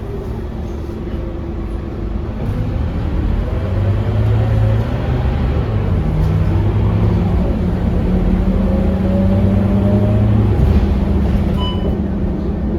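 Scania K230UB city bus engine and drivetrain under way, pulling harder from about four seconds in with a whine that rises in pitch, then easing off with a sudden drop in engine note near the end.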